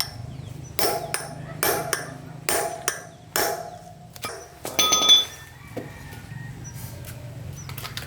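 Hammer striking metal: four blows a little under a second apart, then a quick run of blows with a metallic ring about five seconds in, over a steady low hum.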